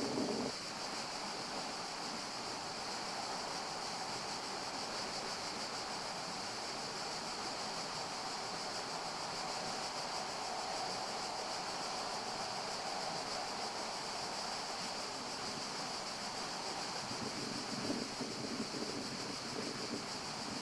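Forest ambience: a steady, even rustle of leaves moved by wind, with a constant airy hiss and a few slightly busier stirrings near the end.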